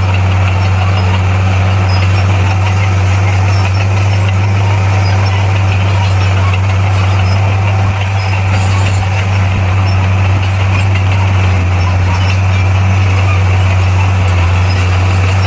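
Bulldozer's diesel engine running steadily, a constant low drone with no revving or change in pitch.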